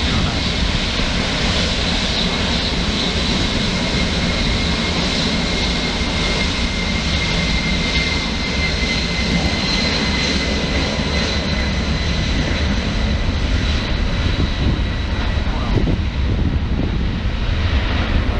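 Wide-body jet airliner's engines passing close and loud: a dense jet rumble with a steady high whine over it, the upper part of the sound thinning out over the last few seconds.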